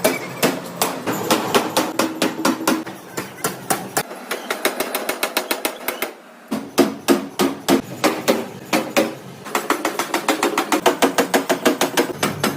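Rapid series of hammer blows on metal during forging, about four to five strikes a second with a metallic ring, with a short lull about six seconds in.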